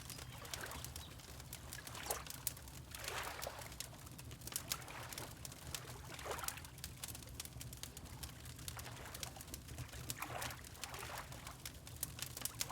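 Wood fire crackling with frequent sharp pops, over water lapping in slow swells every few seconds and a steady low rumble.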